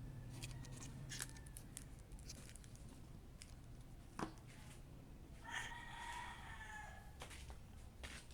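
A rooster crowing once, faint, for about a second and a half starting around five and a half seconds in, over scattered light clicks and taps.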